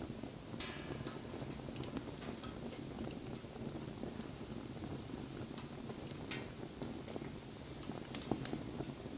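Wood bonfire burning: a steady low rumble of flames with scattered sharp crackles and pops, and a short hiss about half a second in.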